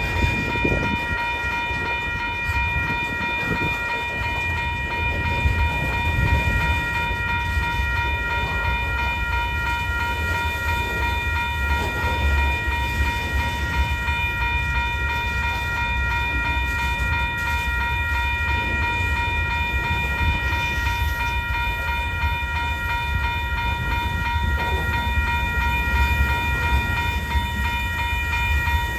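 Freight train rolling past with a steady low rumble of wheels on rail, while a steady ringing tone, several pitches at once, sounds over it throughout.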